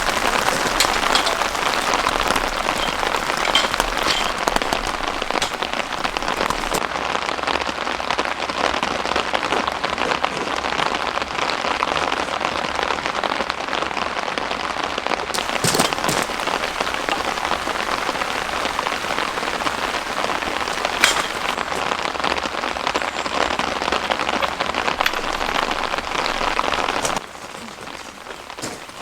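Heavy rain falling steadily, a dense patter with a couple of louder single knocks. Near the end it suddenly becomes quieter.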